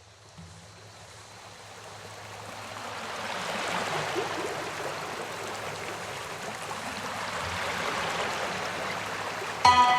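Running-water ambience fading in and swelling to a steady rush over a faint low hum. Near the end, music comes in suddenly with a struck chord.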